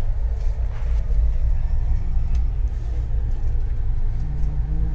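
Steady low rumble of a train in motion, with faint tones coming in near the end.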